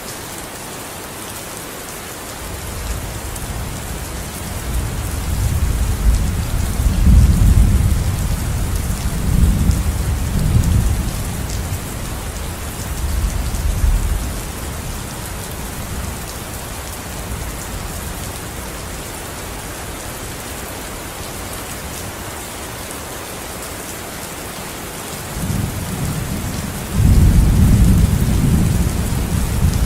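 Steady rain with rolling thunder: a long low rumble swells a few seconds in and dies away about halfway, and a second, louder rumble builds near the end.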